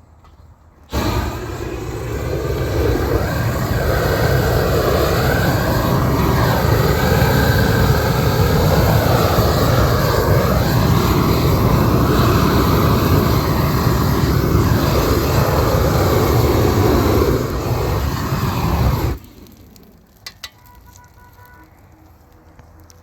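Gas torch burner running steadily, as used to heat Isogam bitumen waterproofing membrane onto a roof. It starts suddenly about a second in and cuts off sharply near the end.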